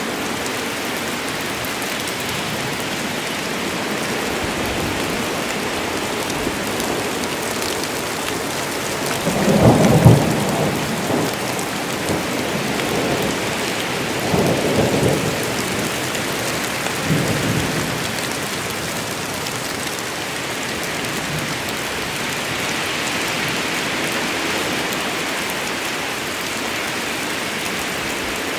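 Steady heavy rain falling in a forest. About ten seconds in, thunder rumbles loudly, then trails off in a few weaker rolls over the next several seconds.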